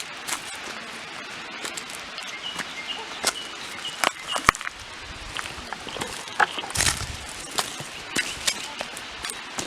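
Footsteps picking down a rocky bush trail: scattered crunches and knocks of shoes on stone and gravel over a steady background hiss, with a few short bird chirps about two to three seconds in.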